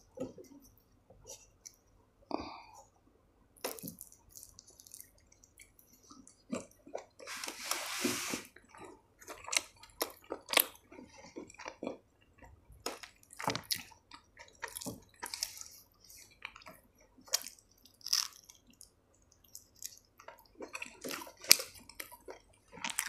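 Eating sounds: chewing of paratha with pickle, a string of soft wet clicks and lip smacks, with one louder hissing noise lasting about a second around eight seconds in.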